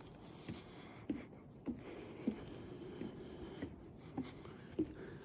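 Footsteps on a wooden boardwalk at a steady walking pace, a soft knock a little under twice a second, over a faint steady hiss of forest ambience.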